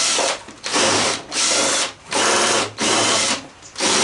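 Power drill driving out a tight screw in short bursts, about six in a row, the trigger pulsed on and off.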